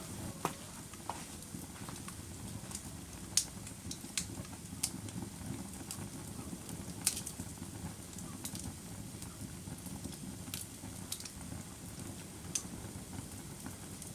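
Wood fire burning: a steady low rush of flames with irregular sharp crackles and pops from the burning logs, the loudest a few seconds in.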